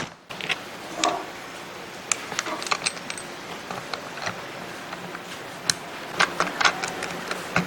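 Irregular sharp clicks and clinks of small hard, metal-sounding parts being handled, in scattered clusters, most of them about two to three seconds in and again near the end.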